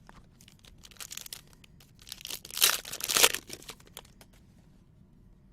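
A sports-card pack wrapper being torn open and crinkled, with a loud tearing burst about two and a half to three and a half seconds in and small rustles and clicks of handling around it.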